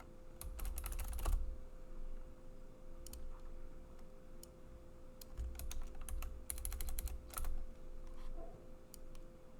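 Typing on a computer keyboard: a quick run of keystrokes, a few scattered key presses, then another fast run of typing later on.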